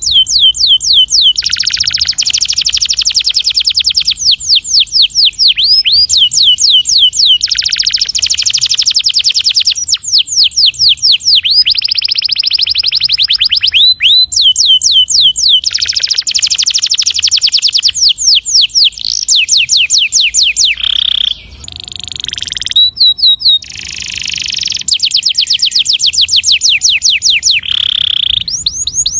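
Canary singing long rolling song: runs of fast, repeated down-slurred notes alternating with dense buzzy rolls, almost without a break.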